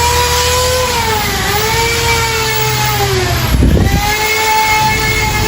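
A motor running with a whining tone that slowly rises and falls in pitch over a low hum. The whine drops out briefly about three and a half seconds in, with a short low thud, then picks up again.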